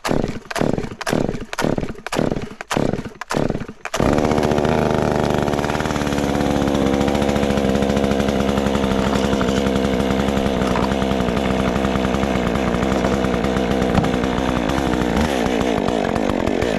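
Two-stroke Stihl MS 201 chainsaw being pull-started: the starter cord is yanked repeatedly, about two pulls a second, until the engine catches about four seconds in. It then runs steadily and starts to rev up near the end.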